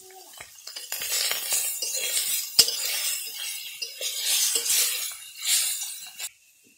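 Small whole fish sizzling in hot oil in a metal wok while a metal spatula stirs and scrapes them, clinking against the pan. The loudest clink comes about two and a half seconds in, and the sound cuts off suddenly near the end.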